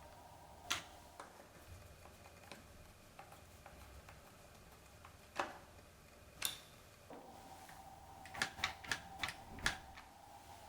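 Clicks and taps of hard plastic parts being handled on a Dyson 360 Eye robot vacuum during maintenance. A few single clicks come first, then a quick run of about six near the end.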